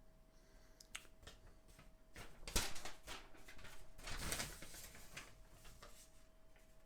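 A tool prying and scraping at the plastic housing of a Philips Hue outdoor motion sensor: scattered clicks and scrapes, a sharp knock about two and a half seconds in and a longer scrape around four seconds.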